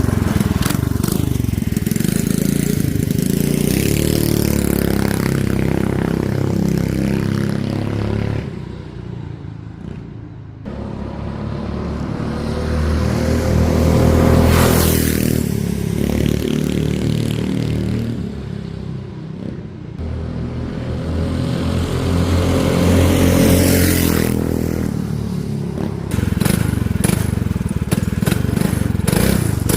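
Predator 212cc single-cylinder four-stroke minibike engine, stage 1 with the governor removed, revving up and down through quick runs. It swells loudest as it passes about halfway through and again about three-quarters of the way in, with a quieter stretch about a third of the way in.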